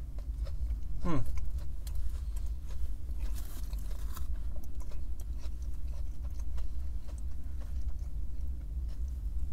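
A person chewing a mouthful of breaded chicken sandwich up close, with soft wet mouth clicks. About a second in there is a short falling hum of the voice.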